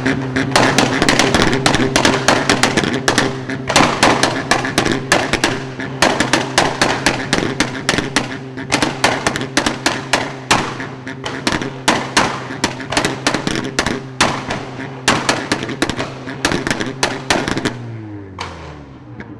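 A modified car's engine held at constant high revs with a rapid, irregular string of exhaust pops and bangs. The revs fall away and the bangs thin out near the end.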